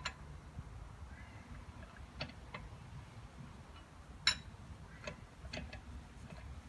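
A handful of short, light metallic clicks and taps, spaced irregularly, the loudest about four seconds in: a lug wrench working the wheel's lug nuts as they are tightened by hand in a criss-cross order.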